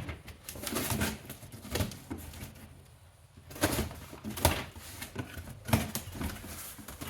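Handling noise from boxed vacuum cleaners and their plastic parts: rustling, then a few sharp clacks and knocks spaced about a second apart in the second half.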